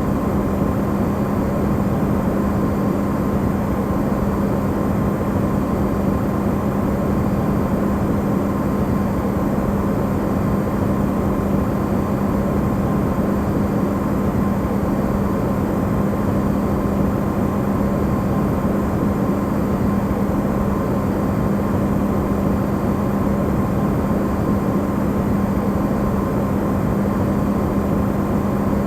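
Electrolux refrigerator running, recorded amplified: a steady low hum under an even rushing noise, with a fainter higher tone, unchanging throughout.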